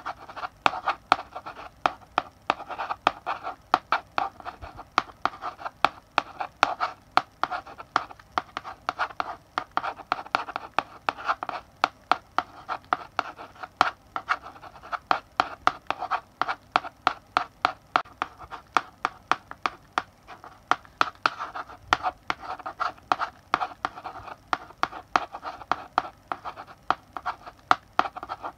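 Chalk writing on a blackboard: quick, irregular taps and short scratching strokes as characters are written.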